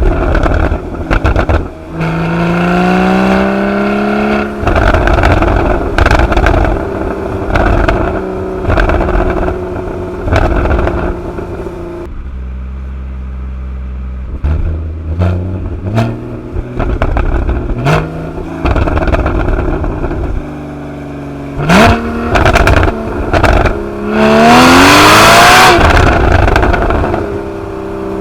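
Porsche 981 Boxster GTS's flat-six engine through its sport flap exhaust, accelerating hard through the gears with the pitch climbing several times, loudest in a long pull near the end. Sharp pops and crackles from the exhaust come between the pulls, and about halfway through it drops to a steadier lower note for a few seconds.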